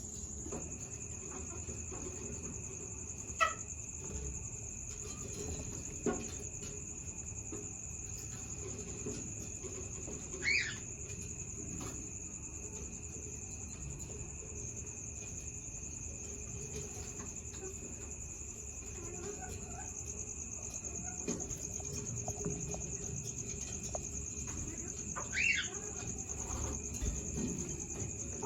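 Steady, high-pitched cricket-like chirring throughout. Three short chirps from Bengalese finches break through: a few seconds in, about a third of the way through, and near the end.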